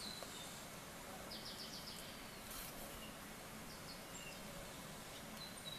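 Faint background hiss with a few distant bird chirps, including a short quick trill about a second and a half in and a falling note near the end.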